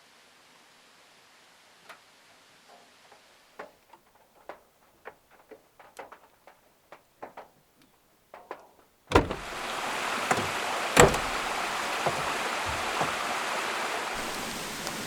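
Rain: scattered drops tapping irregularly over a faint hiss, then about nine seconds in a loud, steady downpour cuts in suddenly, with heavy drops striking close by.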